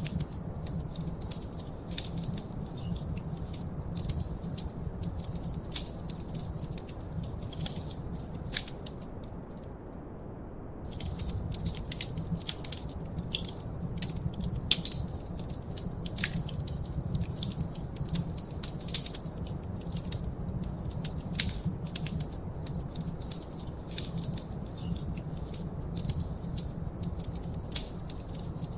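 Wood fire in a fireplace crackling, with frequent sharp pops and snaps over a low, steady rumble. The crackling cuts out for about a second around ten seconds in, then resumes.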